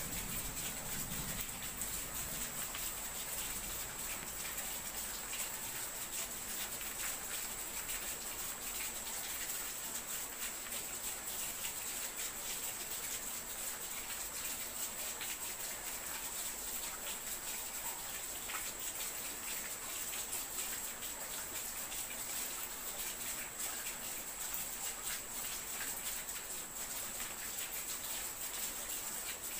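Steady rain: a dense, even patter of fine drops with a constant high hiss.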